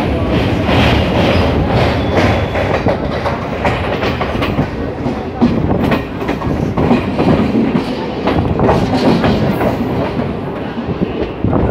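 A train running along the track, heard from on board: a steady rumble with irregular clicks and knocks as the wheels clatter over the rail joints.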